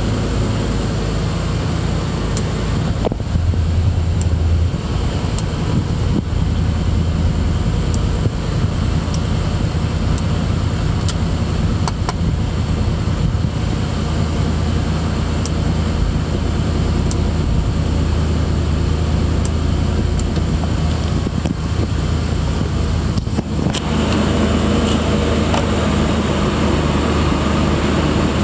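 Engine of a 1934 Mercedes-Benz 500K replica idling steadily after a cold start, heard from inside the cabin. The sound grows a little fuller and louder near the end.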